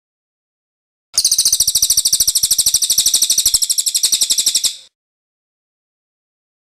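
Cililin bird singing one rapid, high-pitched rolling trill (its "ngerol" song) that starts about a second in and runs for nearly four seconds before stopping.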